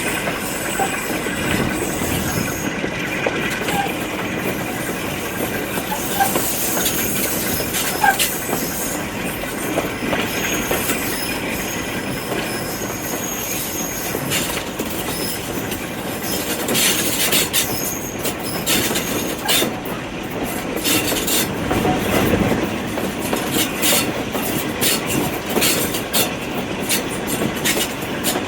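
Train running along the track, its wheels clattering over the rail joints, with a faint high wheel squeal about six to nine seconds in and quick clicks coming thick over the second half.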